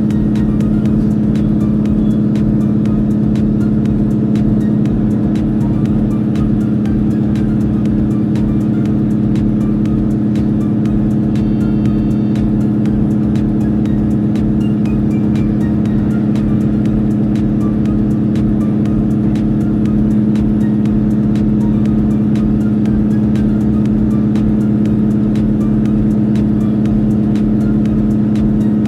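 Cabin sound of a JR Hokkaido H100 (DECMO) diesel-electric railcar under way: a steady, unchanging drone from its engine and drive.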